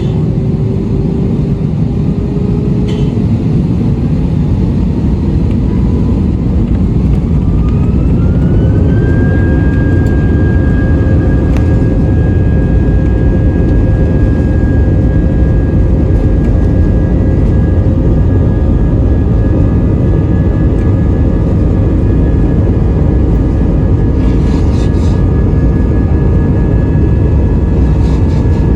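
Airbus A320 jet engines heard from inside the cabin, a loud rumble with a whine that rises over the first nine seconds or so, then holds steady as the engines settle at takeoff thrust.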